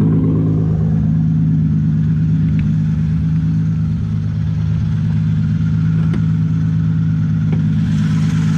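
Toyota Supra's turbocharged inline-six idling steadily, loud and even, sounding healthy.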